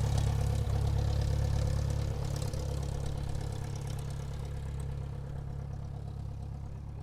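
Light aircraft's piston engine and propeller droning at a steady pitch, growing gradually fainter.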